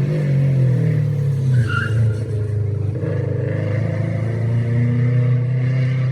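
Rally car engine running hard on a city street stage, its pitch rising and falling as it revs through the corner. A brief high squeal sounds about a second and a half in.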